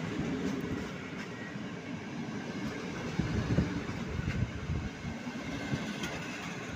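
Train rolling along the tracks: a steady rumble of wheels on rail, with a few louder knocks about halfway through.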